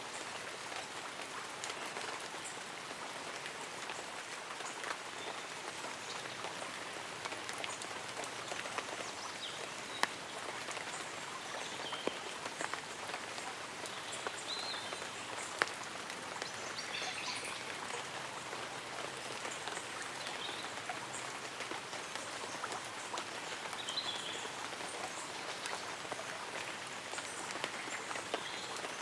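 Light rain pattering on leaves and an umbrella, a steady hiss with scattered individual drops striking. A few brief high bird or insect chirps come and go.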